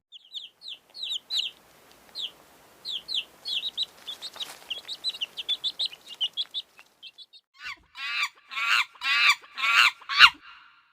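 Bird calls: a run of short, high chirps, then about six louder, lower calls that fall in pitch near the end.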